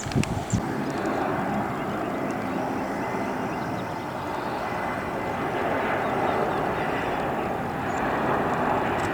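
Jet airliner engines running with a steady rushing noise and a faint whine, growing a little louder near the end. A few sharp knocks at the very start.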